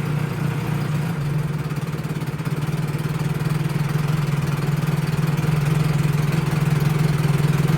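1975 Johnson 25 hp two-cylinder two-stroke outboard running steadily in a test tank, growing a little louder over the second half.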